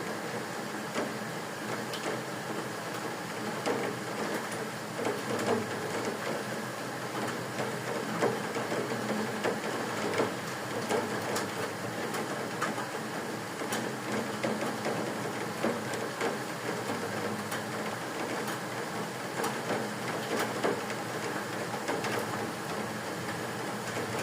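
Rain falling: a steady hiss with many small, irregular taps of drops.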